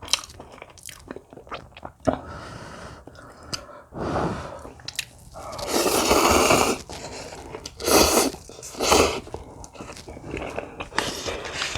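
Close-miked eating: biting and chewing with crunchy, sticky mouth sounds, broken by a few louder noisy bursts, the longest lasting about a second in the middle.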